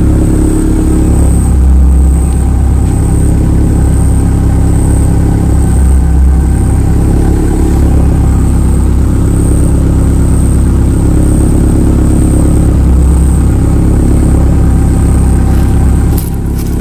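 A loud, steady engine-like hum with several held low pitches, and a faint high tone pulsing about once a second above it.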